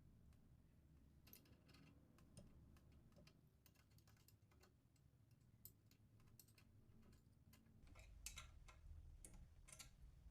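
Near silence, with faint scattered clicks and ticks, a few more of them near the end.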